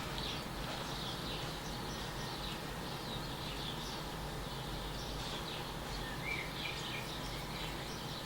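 Small birds chirping over and over in the background, short high chirps scattered throughout, over a steady hiss and low hum.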